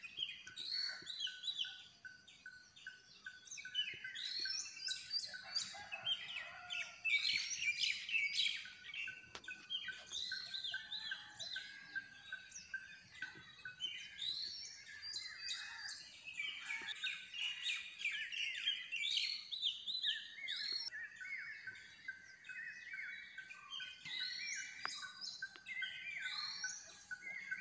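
Many birds chirping and singing at once: a dense, unbroken chorus of short, repeated chirps and whistles.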